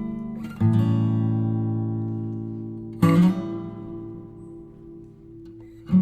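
Background music on acoustic guitar: a slow chord struck about half a second in and another about three seconds in, each left to ring out and fade.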